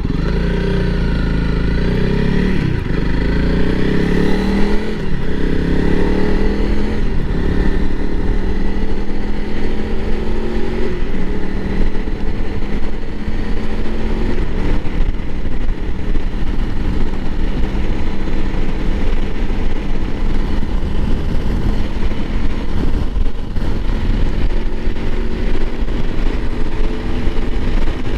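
Honda CRF300L Rally's fuel-injected single-cylinder engine accelerating through several gears, its pitch rising and dropping back at each shift, then running steadily at cruising speed.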